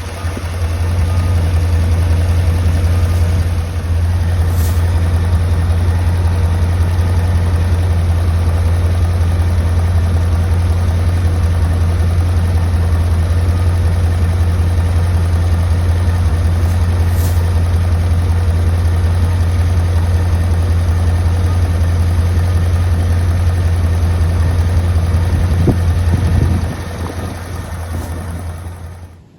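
1993 C4 Corvette's V8 engine idling steadily while it is run to burp air out of the cooling system. About 26 seconds in the engine is shut off and the sound dies away over a couple of seconds.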